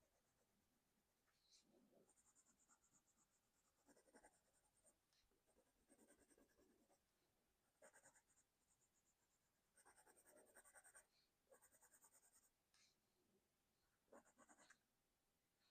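Colored pencil scratching on sketchbook paper in short, faint bouts of quick back-and-forth shading strokes, with pauses between them.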